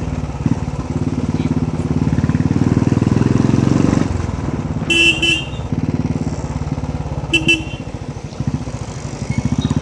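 Royal Enfield Bullet's single-cylinder engine running at low speed through a loud aftermarket Indori silencer, with an even beat of exhaust pulses, louder for the first few seconds and easing off about four seconds in. A vehicle horn gives two short double beeps, about five and seven and a half seconds in.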